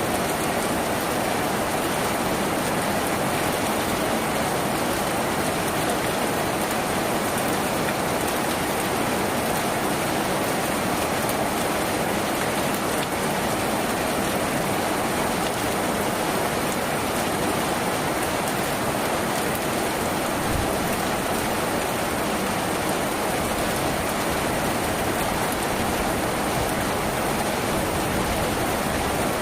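Steady heavy rain drumming on a tin roof, an even, unbroken patter.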